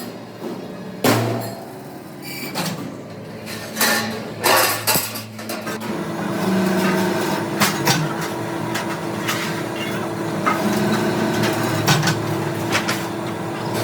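Metal clanks and hammer-like knocks from steel fabrication work, irregular and loudest about a second in and around four to five seconds. From about halfway a steady machine hum runs under them.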